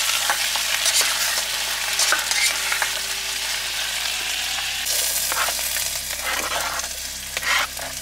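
Paneer cubes and green capsicum frying in oil in a small camping pot over a gas stove, sizzling steadily, at the half-fry stage. A metal slotted spatula stirs them, with scattered scrapes and clicks against the pot.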